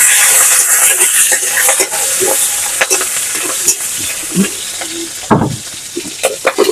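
Prawns sizzling in hot oil in a metal karahi while a flat metal spatula stirs them, scraping and clicking against the pan. The sizzle is loudest at first and dies down, with a louder knock about five seconds in.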